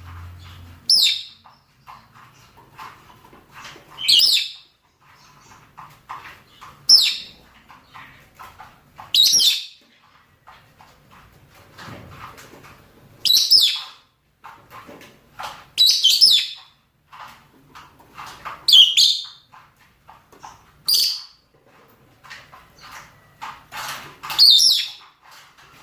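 Rosy-faced and Fischer's lovebirds giving mating calls: about ten loud, shrill, downward-sweeping shrieks, one every two to three seconds, over softer continuous chattering.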